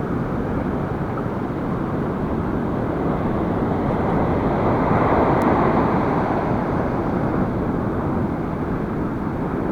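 Gale-force wind buffeting the microphone, blended with breaking surf: a steady rushing noise that swells for a couple of seconds around the middle.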